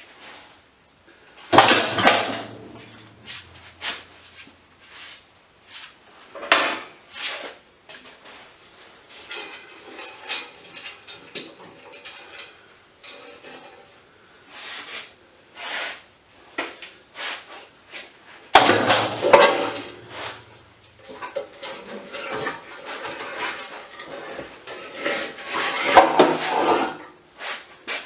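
Metal scrap parts being handled and pried apart by hand: irregular clanks, knocks and clinks, with two louder stretches of rattling, a couple of seconds in and again about two-thirds of the way through.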